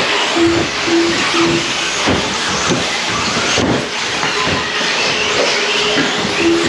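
Electric RC truggies and stadium trucks racing on the track: brushless motor whine rising and falling as the cars accelerate and brake, over a dense hiss of tires and motors. Short steady beeps sound three times in a row about half a second apart near the start and again near the end.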